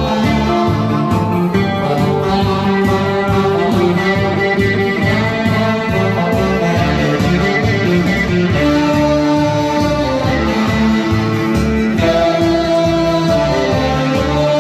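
Music: a tenor saxophone playing a song melody in long held notes over a backing track with a steady beat.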